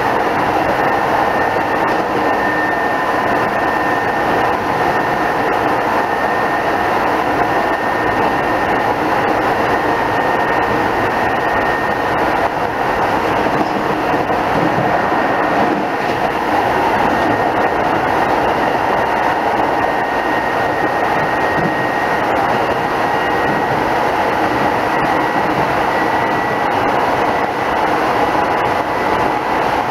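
Keisei 3500-series electric commuter train running steadily, heard from inside the car: an even rumble of wheels on rail with a thin, steady high tone held over it.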